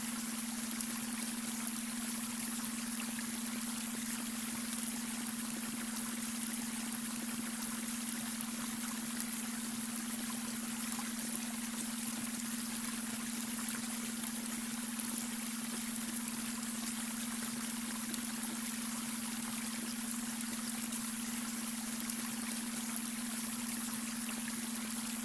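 Babbling brook, water trickling and splashing steadily, with a steady low hum of a beta brainwave tone running underneath.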